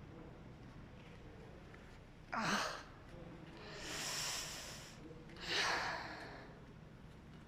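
A woman's breathy "oh" of admiration, followed by two long sighing breaths, the second a sharp out-breath about three seconds later.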